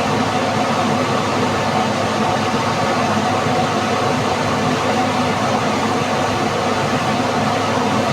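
Steady hiss of water spraying, unbroken and even in level.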